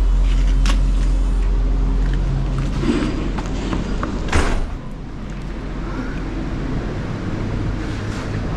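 A vehicle engine idling, a steady low hum, with a few sharp clicks; the loudest clack comes about four and a half seconds in, after which the engine hum drops away and a quieter background remains.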